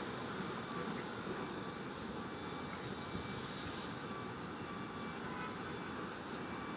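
Steady hum of distant city vehicle noise heard from an apartment, even throughout, with faint thin high tones above it.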